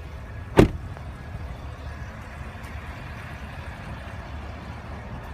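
Pickup truck's hood latch releasing with a single sharp clunk about half a second in, over a steady low rumble.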